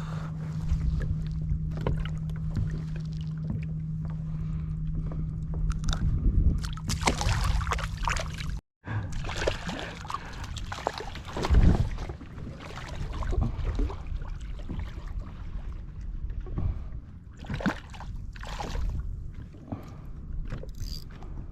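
Water sloshing and splashing against a kayak's hull, with a steady low hum through the first part that stops abruptly at a cut. After it, uneven splashes and knocks, the loudest a little under twelve seconds in.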